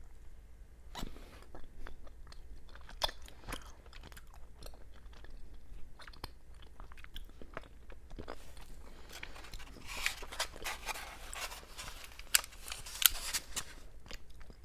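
Close-miked chewing of a soft fruit-flavoured mochi rice cake with bean-paste filling: a scatter of sharp mouth clicks, getting busier and louder in the second half.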